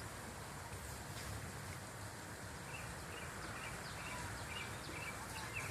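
Steady outdoor background hiss with faint, short bird chirps repeating about twice a second.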